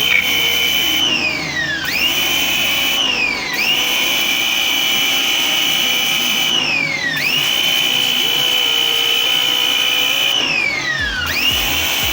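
Tecna electric pressure washer's motor whining at full speed; four times its pitch falls away as it spins down, then it snaps back up to speed as it starts again.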